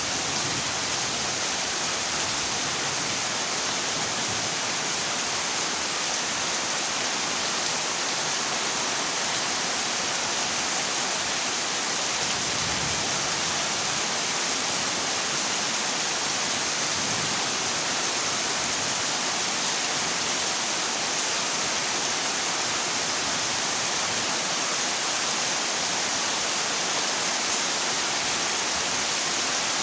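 Heavy rain drumming on a corrugated zinc roof, a steady dense hiss that neither builds nor fades.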